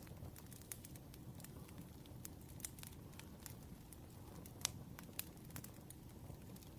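Wood fire crackling softly: scattered sharp pops and snaps over a low steady rumble, with the loudest pop a little past halfway through.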